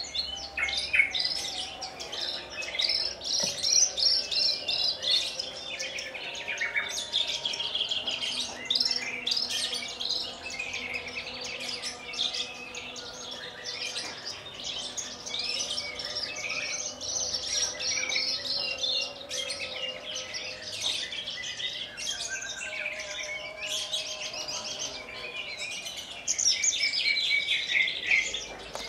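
Javan bush lark (branjangan) singing a long, continuous, varied song of rapid trills and chirps, louder in a burst near the end.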